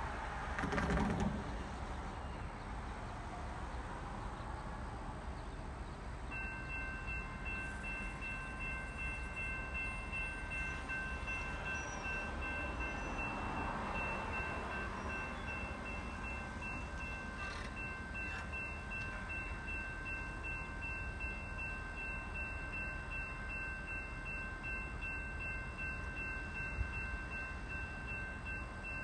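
Train at a railway station: a steady low rumble, with a brief louder swell about a second in. From about six seconds in, several steady high-pitched tones sound together and hold on.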